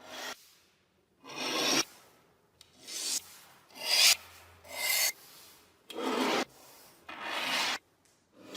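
Hand abrasion on the rusty metal of an antique kerosene lamp: seven rasping scrub strokes, each about half a second long, about one a second, with short pauses between.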